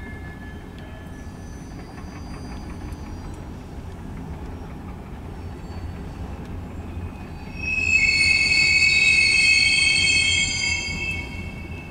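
Freight train cars rolling past with a steady low rumble and faint wheel squeal. About two-thirds of the way in, the wheels break into a loud, high, multi-toned squeal for several seconds, which then eases off.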